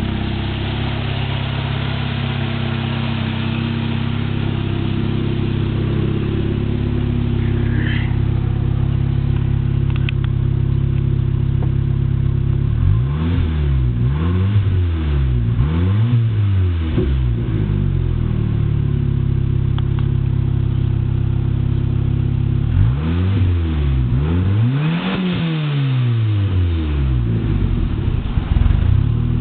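Turbocharged 2.3-litre four-cylinder of a 1993 Ford Ranger, breathing through a 3-inch exhaust with a Dynomax Bullet muffler, idling steadily. It is blipped in a quick series of free revs about halfway through and again in a couple of revs near the end, the pitch rising and falling back to idle each time.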